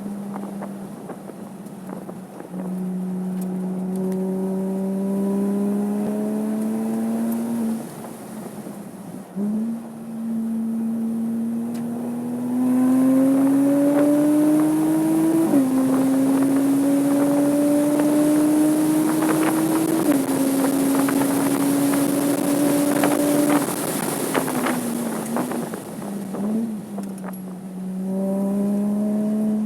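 Porsche 987.2 Cayman S flat-six engine pulling hard on track: its pitch climbs through the revs and drops sharply at upshifts about halfway and two-thirds of the way in. Near the end the note falls away as the driver lifts off, with a quick blip for a downshift, and then it climbs again under full throttle.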